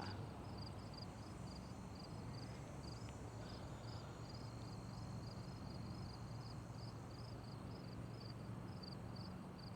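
Faint insect chirping in a steady, even rhythm of about three high-pitched chirps a second, over a low steady hum.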